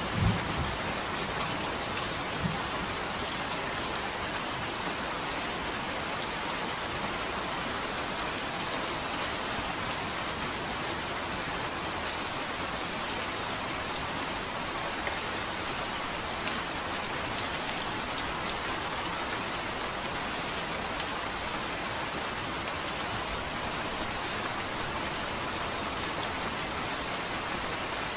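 Steady rain falling on a surface, an even hiss with a few louder individual drops standing out now and then.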